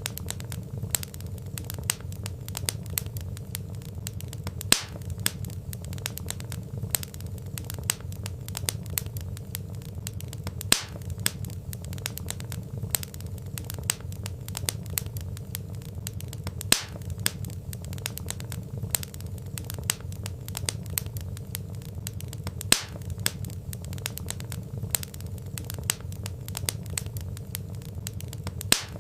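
Wood fire crackling: dense small pops and snaps over a steady low rumble, with a sharper, louder crack about every six seconds.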